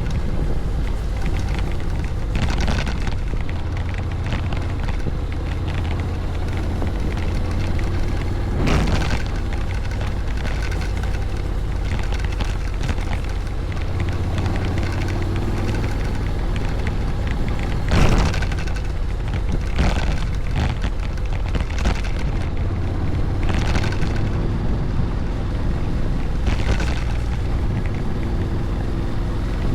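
Honda Forza 750 maxi-scooter riding along: steady wind rush on the microphone over the low engine hum, its pitch rising and falling with the throttle. Several brief louder whooshes, the biggest about 9 and 18 seconds in.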